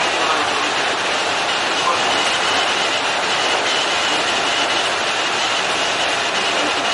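Kintetsu electric commuter train running along the track, heard from the front of the train: a steady rolling noise of wheels on rails, with a faint high steady tone above it.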